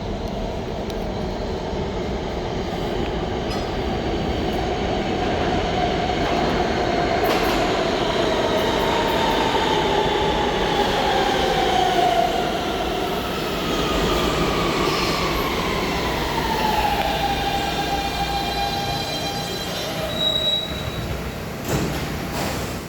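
New York City Subway train running through the station and slowing, its rumble carrying a whine that slides steadily lower in pitch for about ten seconds from seven seconds in, then holds, with a couple of sharp knocks near the end.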